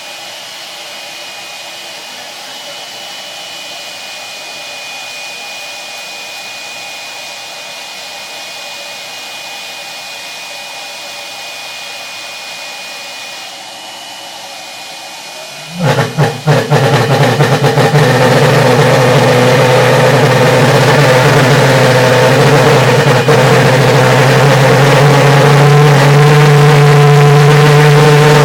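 A steady rush of starting air with a thin high whistle, then about 16 seconds in the valved pulse jet engine catches with a brief sputter of pops and runs with a very loud, steady low buzz.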